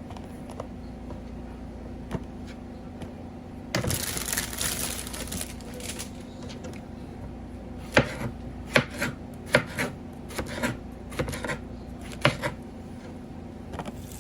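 Knife chopping on a cutting board: about a dozen sharp, irregular knocks in the second half, after a couple of seconds of rustling.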